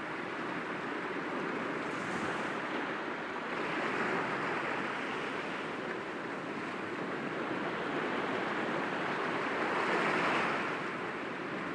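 Sea waves breaking gently against rocks, a continuous wash that swells twice, about four seconds in and again about ten seconds in.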